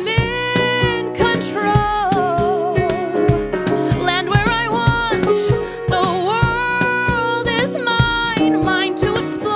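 A song: a woman sings long held notes with vibrato over acoustic guitar and a steady beat.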